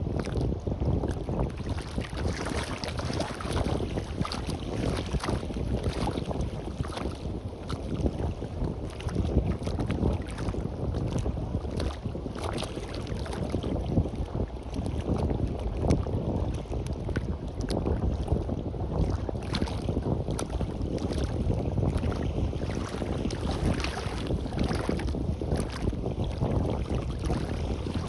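Wind buffeting the microphone in an uneven low rumble with frequent short crackles, over the wash of the sea on a beach.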